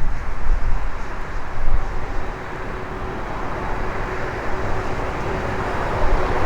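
Strong gusty wind buffeting the microphone, with the jet engine noise of an approaching Emirates Airbus A380 building up underneath. A faint steady engine whine grows stronger toward the end.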